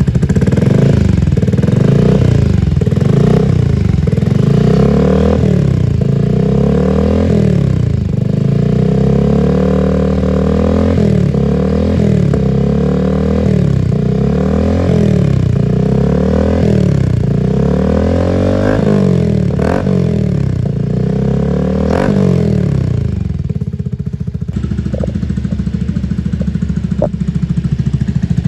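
Yamaha PG-1's single-cylinder engine running through an aftermarket Diablo twin-outlet exhaust. It is revved in repeated quick throttle blips, roughly one a second, then settles to a steady idle near the end.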